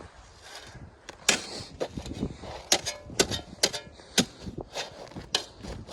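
Footsteps crunching through ice-crusted snow: a run of sharp, irregular crunches starting about a second in.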